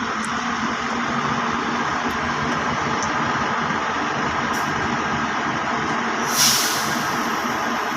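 A heavy truck or bus engine runs steadily. About six and a half seconds in comes a short, loud hiss of air from the air brakes.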